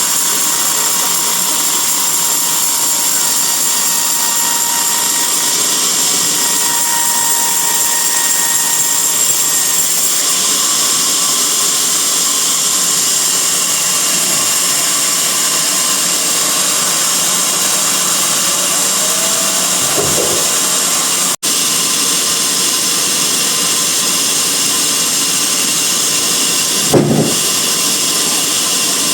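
Bandsaw sawmill running through a teak log: a steady loud whine and hiss from the blade and machine. Sound cuts out for an instant about two-thirds through, with a short thump just before and another near the end.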